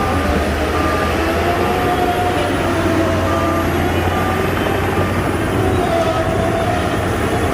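Heavy diesel engine of the Shantui DH17C2 bulldozer running steadily under load, with wavering whines over a deep hum. A reversing alarm beeps repeatedly, less than a second apart, as the machine backs up.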